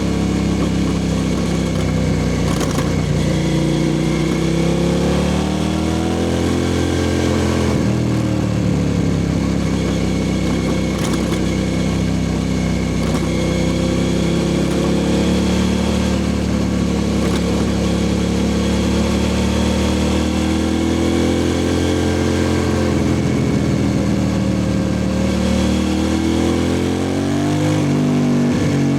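2003 Suzuki SV650S's 645 cc V-twin running through a Lextek exhaust with no dB killer, loud and continuous. Its note rises and falls gently several times with the throttle and dips briefly near the end.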